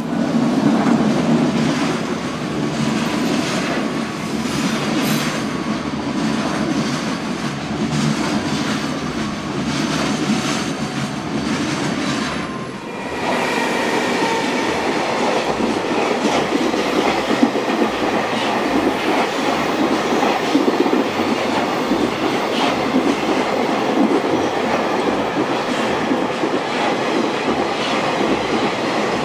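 JR Freight EF210 electric locomotive and its container freight train passing close by, the wagon wheels clattering over the rail joints. The sound dips briefly about thirteen seconds in, then carries on brighter and denser as the wagons roll past.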